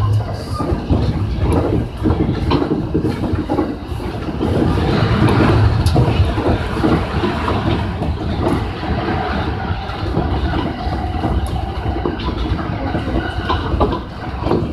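Electric commuter train of the JR Tōkaidō Line running along the track, heard from inside the front car behind the driver's cab: a steady rumble of wheels on rails with scattered clicking, growing a little louder a few seconds in.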